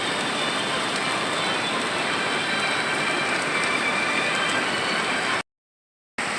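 Kali Gandaki river in flood: a steady rush of fast, heavy water. It cuts off abruptly near the end.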